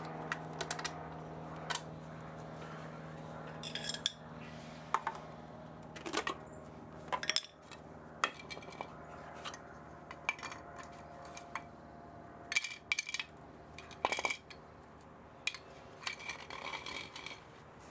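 Irregular metallic clinks and taps of tools and small metal parts being handled while a spa motor is taken apart for scrap, over a steady low hum that fades out about halfway through.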